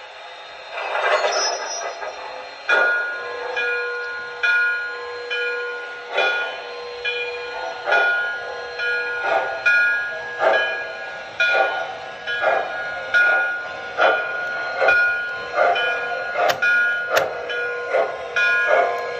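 MTH Proto-Sound 2 sound system of a model Nickel Plate Road steam locomotive pulling a loaded 12-car train: steam chuffs that start a few seconds in and come quicker and quicker as it gathers speed, with a held several-note whistle sounding over much of it.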